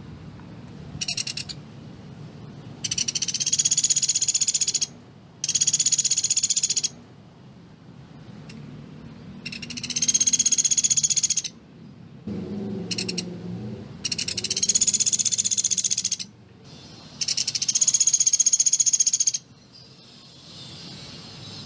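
Pelatuk beras singing its rapid, dense, high-pitched trills. About five loud trills of roughly two seconds each come a second or two apart, with a couple of short bursts between them.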